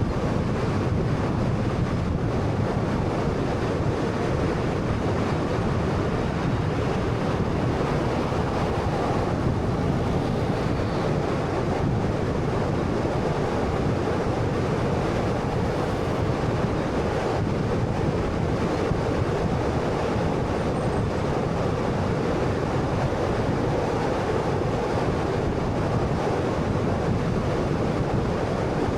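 Steady road and tyre noise with the low hum of a 2013 Honda Fit's 1.3-litre engine, from a car driving at an even speed.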